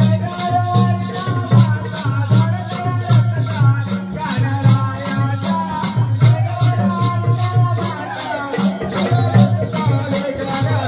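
Folk music: a steady low drum beat with high rattling percussion about four strokes a second under a melodic line that bends in pitch.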